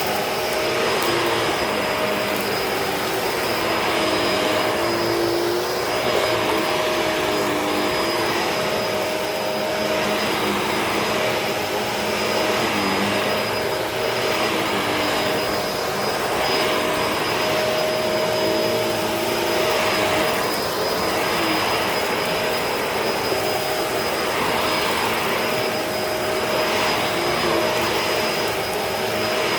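Upright vacuum cleaner running on a dirty carpet, its motor holding a steady whine while the brush-roll and suction noise swells and eases about every two seconds as it is pushed back and forth.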